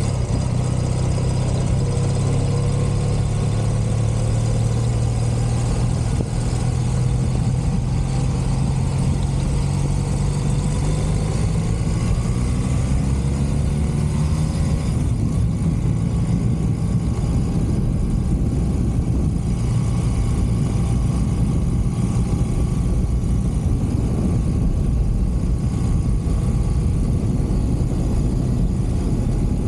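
1983 BMW R100CS air-cooled flat-twin engine running under way, its pitch climbing slowly over the first half as it gathers speed, then holding steady. It is running after a mixture-screw adjustment, with the tune apparently well set.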